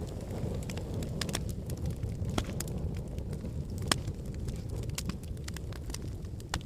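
Fire burning in a fireplace, crackling: a steady low rumble of flame with scattered sharp pops and snaps, the loudest one about four seconds in.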